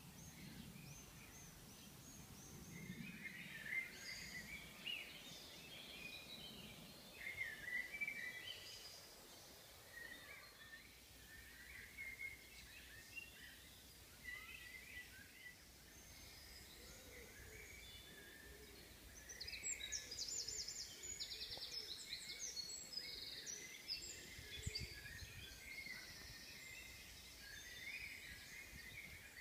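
Songbirds singing: scattered chirps and short phrases, with a fast, high trilling song about twenty seconds in, faint against a low outdoor hiss.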